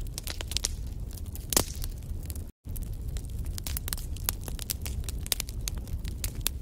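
Wood fire burning in a fireplace, crackling with many quick sharp snaps and pops over a low rumble of flame, one pop louder than the rest about a second and a half in. The sound cuts out completely for an instant about two and a half seconds in.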